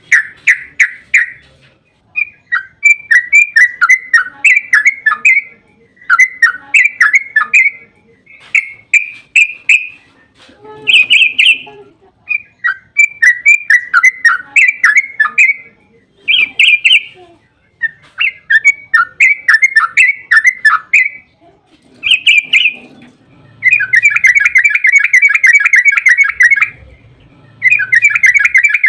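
Yellow-vented bulbul (trucukan) song: loud, bubbly chattering phrases a second or two long, repeated with short pauses. Near the end the phrases give way to long, fast continuous trills, the 'ropel'.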